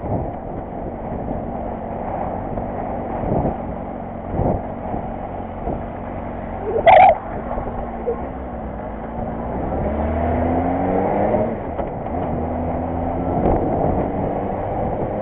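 A vehicle engine running, rising in pitch as it speeds up about ten seconds in, with one brief sharp sound about seven seconds in.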